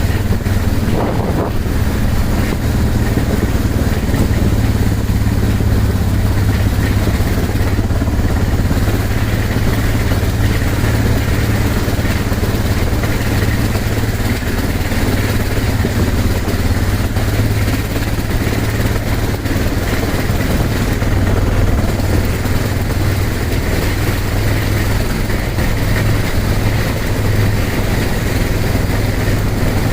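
Motorcycle engine running steadily while the bike rides along, a constant low drone with a steady haze of road noise over it.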